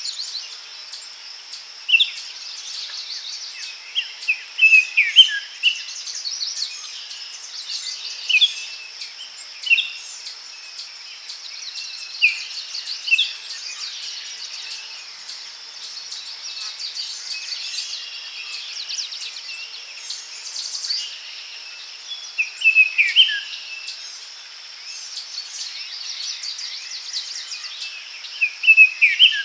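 Daytime forest ambience: a steady high-pitched insect drone runs throughout, with short chirping bird calls scattered over it, in clusters of several calls at a time.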